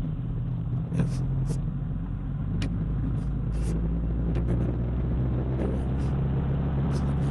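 Steady low rumble of a car's engine and road noise while driving, with a few light clicks.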